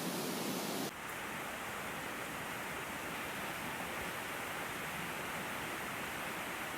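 Steady rush of flowing water from a mountain stream. About a second in the sound changes abruptly and turns duller, losing its hiss.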